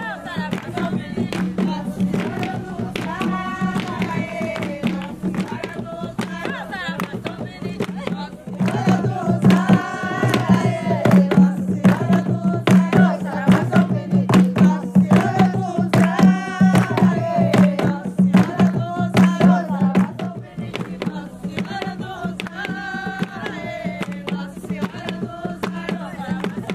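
Jongo song: voices singing together over hand drums beating a steady, fast rhythm. It grows louder from about a third of the way in and eases back a little after the three-quarter mark.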